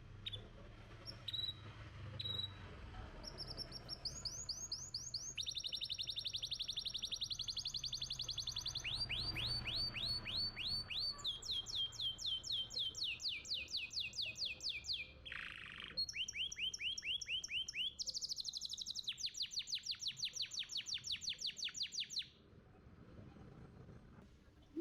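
Domestic canary singing a long song of fast rolling trills: each run of identical repeated notes lasts one to three seconds before the song switches to a new note at a different pitch. It begins with a few scattered chirps and stops a couple of seconds before the end.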